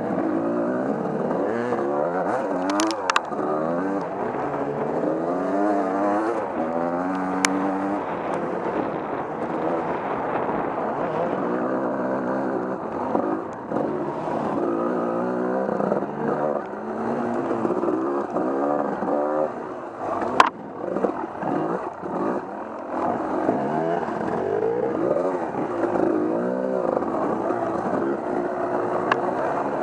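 Off-road vehicle's engine running hard on a trail ride, its pitch rising and falling constantly as the throttle is worked, with a few sharp knocks, the loudest about two-thirds of the way through.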